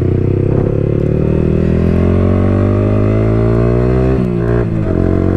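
Yamaha R15 V4's 155cc single-cylinder engine through an Akrapovic full-system exhaust with the dB killer removed, pulling under acceleration. The note climbs steadily, breaks briefly about four seconds in as the bike shifts up, then carries on.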